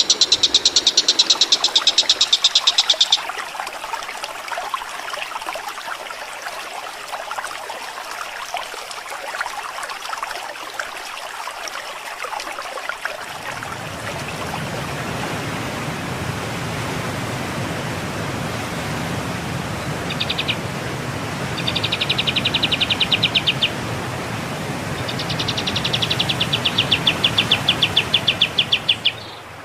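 Songbird birdsong of the kind used as 'masteran' training song: a very fast, high buzzing trill repeated in bursts of one to four seconds, over a dense background of other chirping birds. A low hum joins about halfway through.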